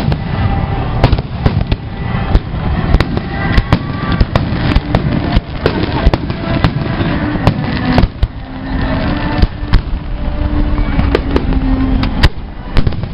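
Fireworks salute: shells bursting in a quick, irregular string of sharp bangs, about one or two a second, over a continuous low rumble of further explosions.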